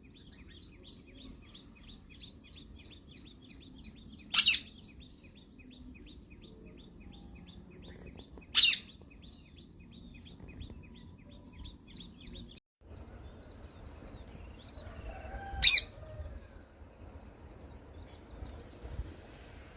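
Parrot giving three loud, short screeches several seconds apart. Under them runs a rapid series of thin chirps, about three a second, which stops abruptly about two-thirds of the way through.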